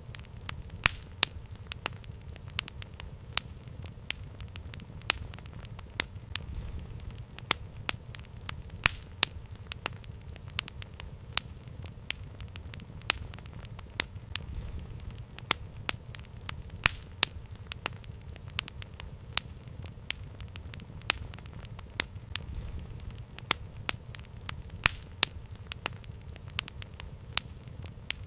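Campfire crackling: irregular sharp pops, several a second, over a low steady rumble.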